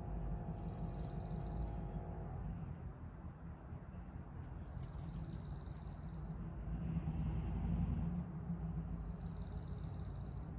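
Songbird singing a high trill about a second and a half long, three times at even intervals about four seconds apart, over a steady low background rumble.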